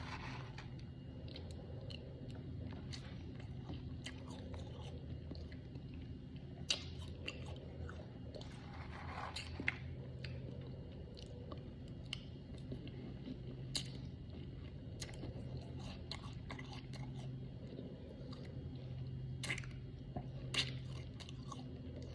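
A person biting and chewing crunchy freezer frost close to the microphone, with irregular crisp crunches and a few louder bites, over a steady low hum.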